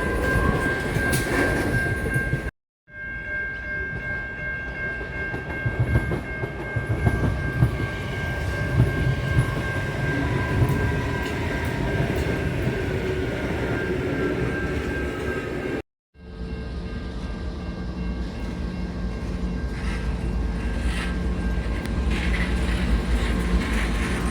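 A train running, with a steady rumble and scattered rail clicks under a sustained high tone. The sound breaks off to silence twice for a moment, about three seconds in and again near sixteen seconds.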